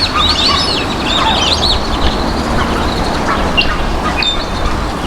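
A group of whistling ducks calling: many high-pitched whistles crowd over one another for the first two seconds or so, then thin to scattered calls. A low steady rumble runs underneath.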